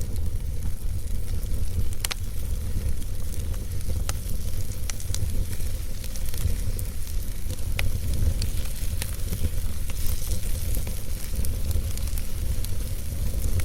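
Wood fire burning in a fireplace, crackling with scattered sharp pops over a steady low rumble of flame.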